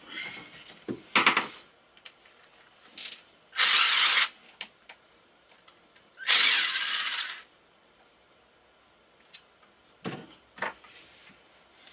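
Bolts on a KLR 650 engine being backed out with a tool: two loud bursts, about half a second and about a second long, with small clicks and knocks of metal parts between them.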